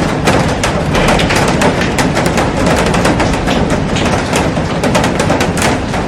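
Heavy rain pouring onto a glass roof: a loud, steady hiss packed with countless sharp drop impacts cracking against the glass.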